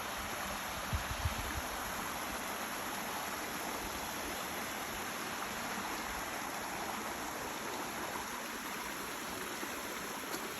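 Creek water running over rocks: a steady rushing. A couple of short low thumps about a second in.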